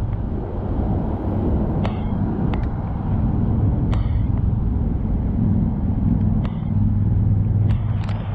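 Steady road rumble from a ride on a bicycle through city traffic, broken by scattered sharp rattling clicks. The low hum of a motor vehicle's engine swells near the end.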